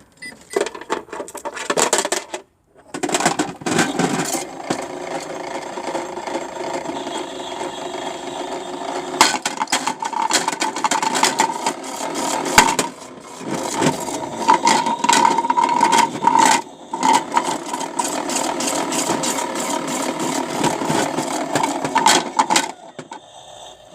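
Toy washing machine running with bricks inside, the small motor turning the drum while the bricks rattle and knock against it in quick, uneven clatters. It cuts off shortly before the end.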